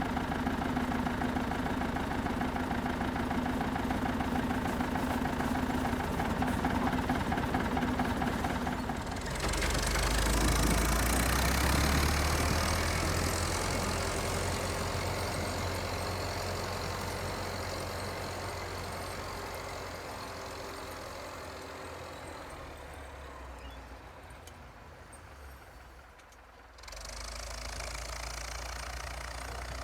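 The engine of a vintage Volvo tractor running while it clears snow. About nine seconds in the sound changes abruptly to a louder, deeper engine note, which then fades slowly. It changes abruptly again near the end.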